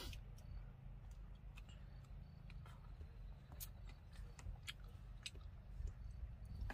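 Soft eating sounds from mouths working boiled sweet potato: scattered lip smacks and small chewing clicks at irregular moments, over a low steady rumble.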